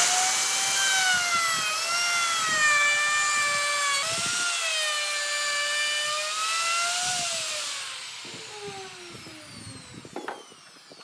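Electric power tool motor running at speed with a high whine and hiss, its pitch dipping slightly as it works, then switched off about seven or eight seconds in and winding down with a falling whine.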